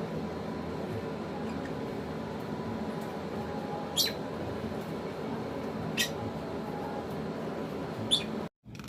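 A lovebird gives three short, sharp chirps, a couple of seconds apart, over a steady background hiss. The sound cuts out for an instant near the end.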